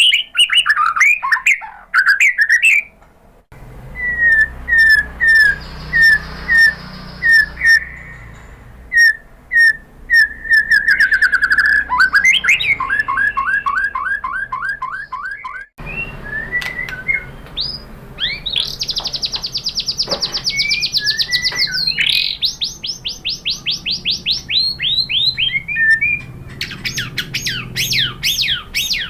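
White-rumped shama (murai batu) singing a loud, varied song of whistles, runs of short repeated notes and fast trills. This is the vigorous 'gacor' song used as bait to set other shamas singing.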